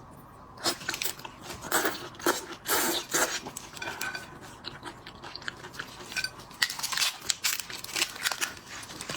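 Close-up crunching and crackling of shrimp shells being cracked, peeled and chewed: an irregular run of sharp cracks and crunches starting about half a second in.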